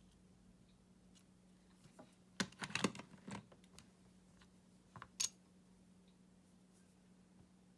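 Light clicks and knocks of small hard parts being handled: a quick cluster about two and a half seconds in and two more near five seconds, over a faint steady hum.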